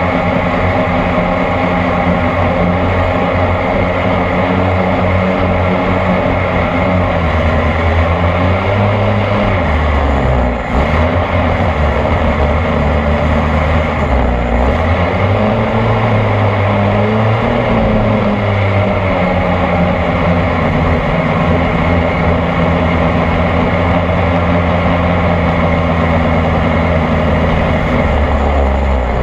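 26cc two-stroke petrol engine of an RC boat running hard, heard close up from on board. Its note dips and climbs again a few times about a third of the way in as the throttle is eased and reopened, then holds steady.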